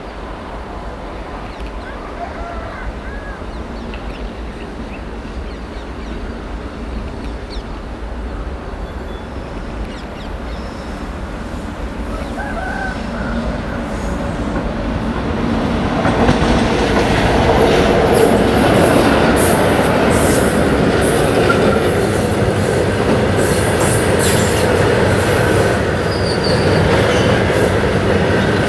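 Freight train hauled by an Indian Railways electric locomotive, approaching and then passing close. A low rumble grows louder through the first half. From about halfway on, the wagons roll by with wheels clattering over the rail joints and squealing.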